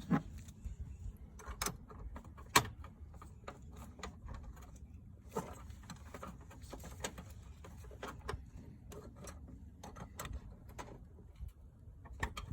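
Scattered metallic clicks and knocks of hand tools on the battery hold-down hardware, over a low steady rumble; the sharpest knocks come right at the start and about two and a half seconds in.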